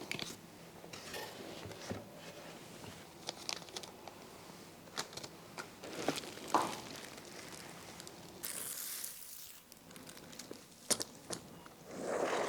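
Packaging being handled as a box is opened: scattered rustling, crinkling and tearing of cardboard and foam with light knocks, and a longer scraping rustle about eight seconds in.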